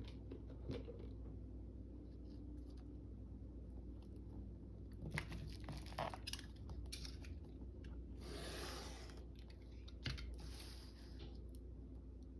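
Paper and craft tools being handled: scattered light clicks and taps, with short rustling swishes of paper about two-thirds of the way through.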